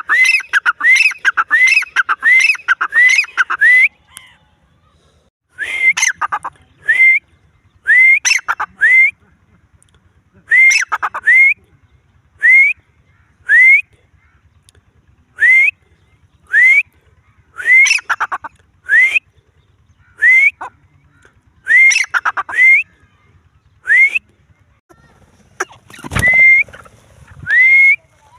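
Grey francolin (teetar) calling, a series of rising whistled notes. They come in a fast run at first, then after a short pause in groups of two or three repeated every second or two. Near the end there is a single low thump.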